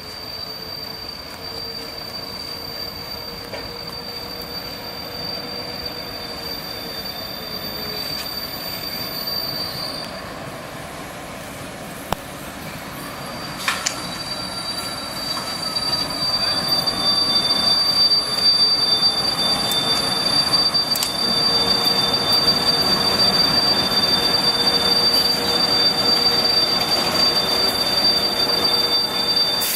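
A train moving through the station with a steady high-pitched squeal over the rumble of the rails. It pauses briefly near the middle after two sharp clicks, then returns with a second tone joining it. The train grows louder through the second half as it comes closer.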